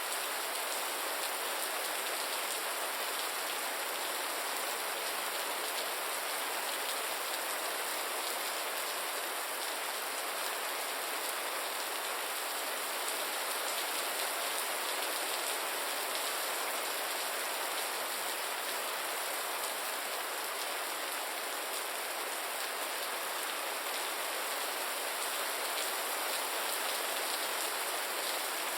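Steady rain falling, an even hiss of many small drops on a surface with no lulls or gusts.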